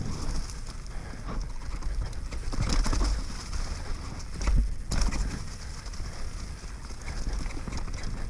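Wind buffeting the microphone as a low, uneven rumble, with scattered clicks and knocks through it and a louder knock about four and a half seconds in.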